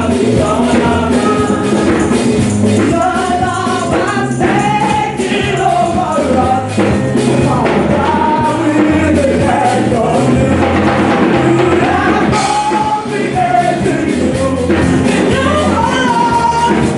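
Gospel praise music: voices singing a melody together over a band with a steady bass line and light percussion.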